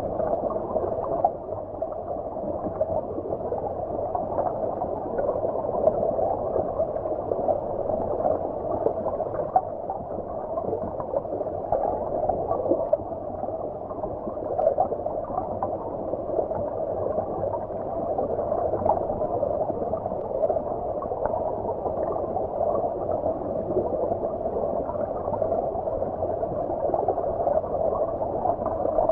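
Stream water heard underwater: a steady, muffled gurgling rush with small scattered pops and no high hiss.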